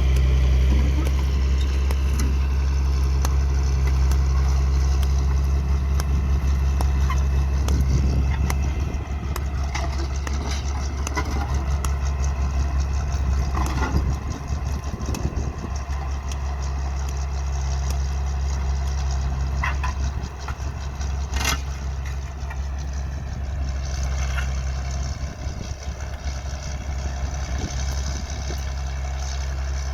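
Farm tractor's diesel engine running steadily under load while tilling the soil, a continuous low drone that eases slightly about a quarter of the way through. A brief sharp knock sounds about two-thirds of the way in.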